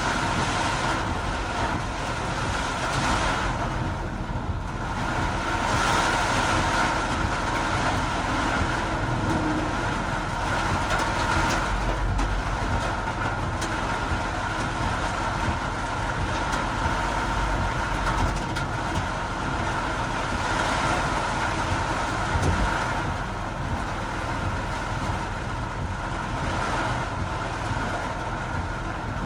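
Vehicle traffic in heavy rain: a steady wash of rain and tyres on a wet road, with a faint steady hum.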